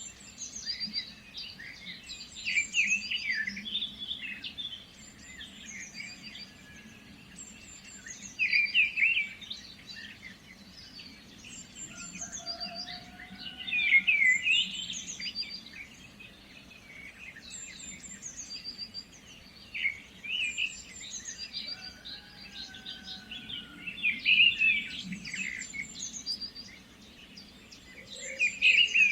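Several songbirds chirping and singing, with a louder cluster of song about every five or six seconds.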